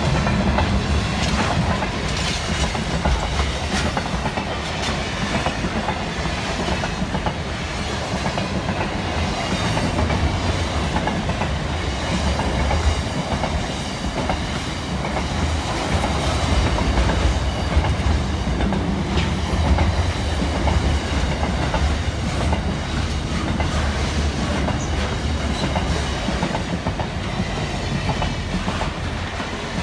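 Freight train rolling past at steady speed: a continuous low rumble with wheels clicking over the rail joints.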